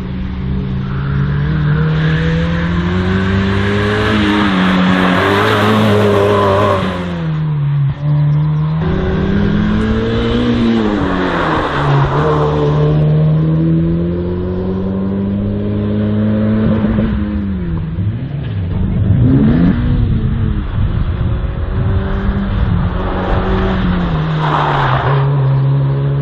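Slalom race car's engine revving hard, its pitch climbing and dropping again and again as it accelerates and lifts off through the course.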